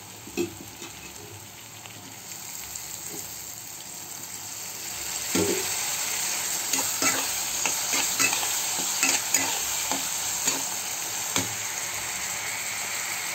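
Chopped tomatoes and onions frying in oil in a pan, a sizzling hiss that grows louder about five seconds in, with a flat spatula stirring and scraping against the pan in short strokes.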